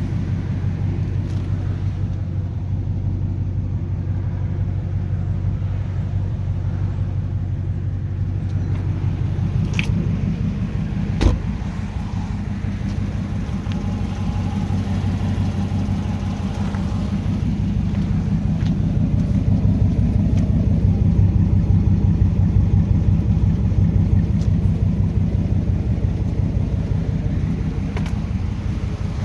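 2010 Dodge Charger SRT8's 6.1-litre Hemi V8 idling steadily through a crazy loud modified exhaust, with a single sharp click about eleven seconds in.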